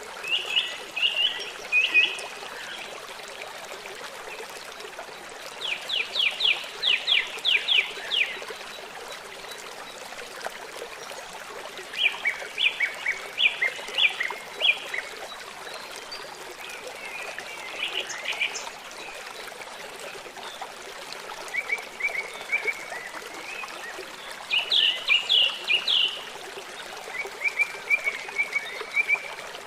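Songbirds singing short, rapid trilled phrases every few seconds over a steady rush of running water from a stream.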